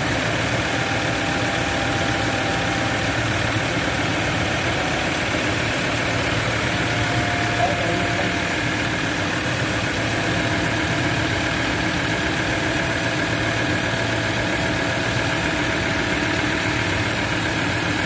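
Ford Ranger 3.2 five-cylinder diesel idling steadily with a grinding noise from the belt drive, which the mechanic pins on a worn alternator overrunning clutch pulley.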